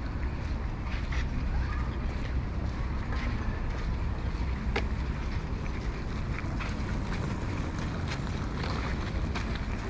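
A steady low rumble with scattered short sharp clicks and taps.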